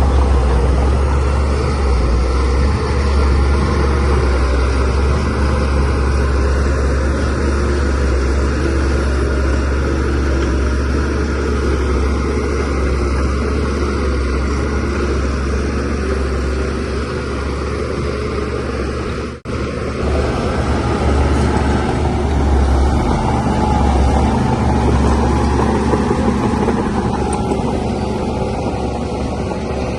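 DH17C3PRO bulldozer's diesel engine running steadily under load as it pushes soil, a constant deep drone with a momentary break about two-thirds of the way in.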